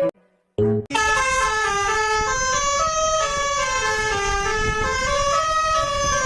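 Electronic tune of held, horn-like notes stepping up and down in pitch, starting after a brief break about a second in.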